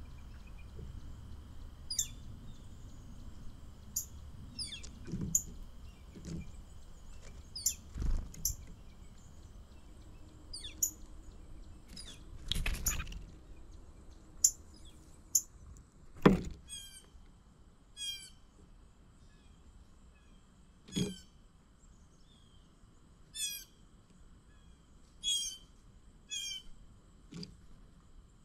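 Wild birds calling in short, high chirps every second or two, with a faster run of calls in the second half, and a few dull thuds in between.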